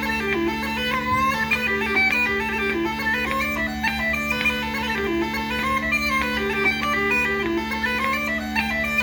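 Bagpipes playing a tune: a melody moving in quick steps over steady, unbroken drones.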